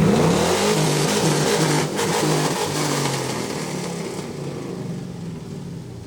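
A car engine revving up hard, then pulling away with its engine note and a hiss of exhaust and tyres, fading as it goes.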